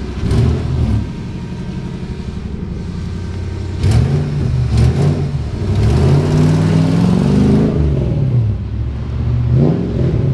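V8-swapped 1990 Nissan 240SX's Nissan VH45 V8 revving as the car pulls away: a few short throttle blips, then a longer rising rev that falls away near the eight-second mark, then another brief blip.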